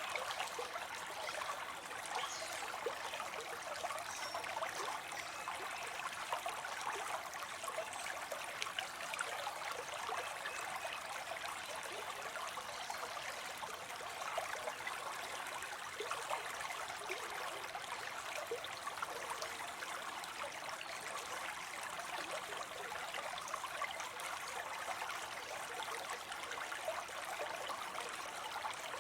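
Water spilling and splashing steadily into a pond, a continuous trickling, splashing rush.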